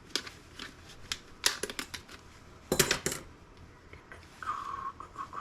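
Sharp clicks and small clattering knocks from hand-handling the laptop's optical drive during disassembly, hard plastic and metal parts tapping together, with the loudest clatter about three seconds in. Near the end a short, high whistle-like tone starts.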